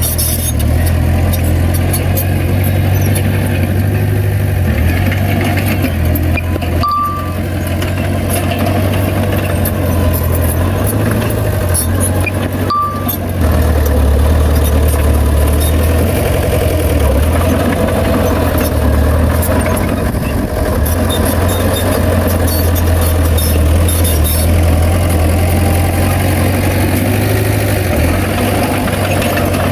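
Heavy diesel engine of earthmoving machinery running steadily, growing louder about thirteen seconds in. Two short high beeps are heard, near seven and thirteen seconds.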